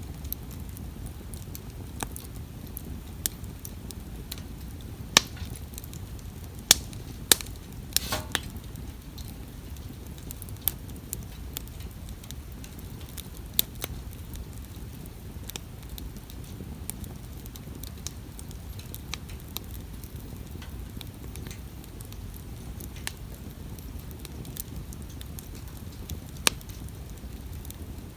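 Wood campfire crackling, with sharp pops scattered irregularly over a steady low background noise. The loudest pops come in a cluster about five to eight seconds in.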